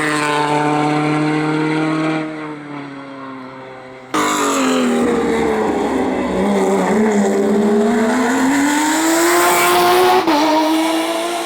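Race car engines at speed. One engine holds a steady note and fades away, then a second car's engine drops in pitch as it slows and climbs again as it accelerates, with a short break in the note near the end.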